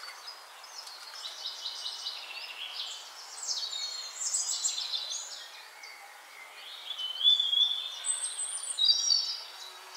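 Birds chirping and singing: runs of quick repeated chirps, then clearer whistled notes in the last few seconds.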